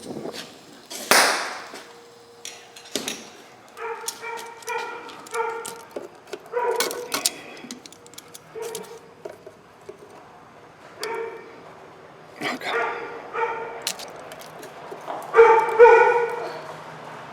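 A dog whining and yipping in a string of short, high calls, loudest near the end, mixed with a few sharp clanks of tools on metal.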